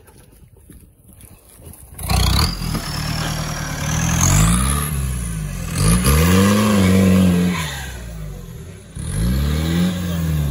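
Off-road competition vehicle's engine revving hard, coming in about two seconds in and then climbing and falling back three times in a row.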